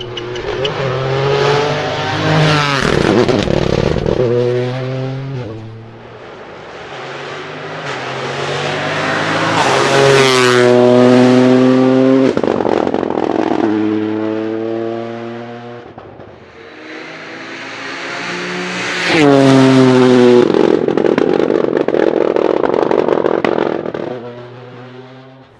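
Rally cars' engines at full racing speed passing three times: each time the note builds as the car approaches, stepping through gear changes, then drops in pitch and fades as it goes by.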